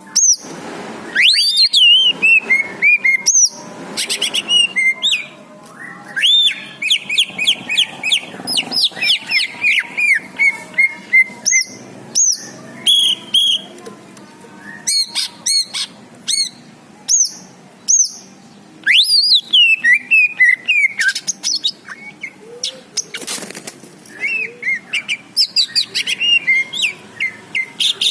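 Songbird singing a fast, varied run of sweeping whistles, trills and chirps in phrases with short pauses.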